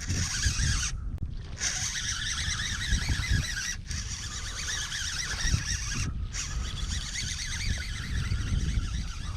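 Wind buffeting the microphone in a rising and falling rumble over a steady higher hiss of wind and water around a small fishing boat; the hiss drops out briefly about a second in and twice more later.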